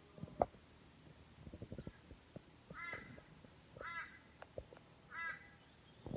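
Wood campfire crackling and popping, with a bird calling three times, a little over a second apart, over a steady high insect drone.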